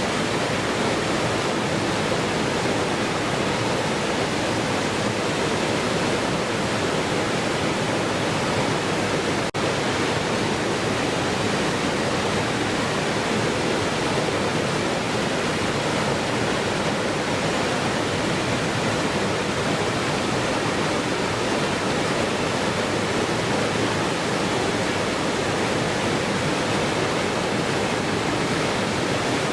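Waterfall rushing, a steady even roar of falling water, broken once by a momentary dropout about a third of the way in.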